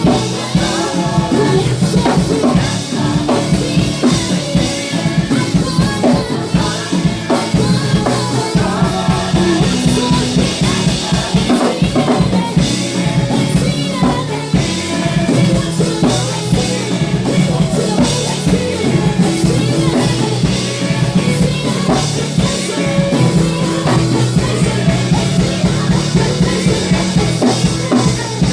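Live church band playing gospel praise music with a busy drum kit of snare, bass drum and rimshots over bass and keyboard.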